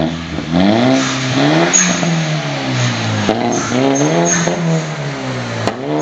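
Seat Leon FR engine revved up and let fall again over and over through a flame thrower exhaust kit, with two sharp cracks from the exhaust, one about halfway through and one near the end.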